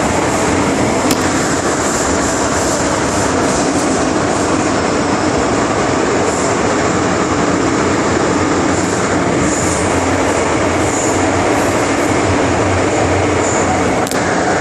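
Inside a Hong Kong MTR Island Line metro train running at speed between stations: steady wheel-on-rail rumble and running noise with a low, even hum and a couple of faint clicks.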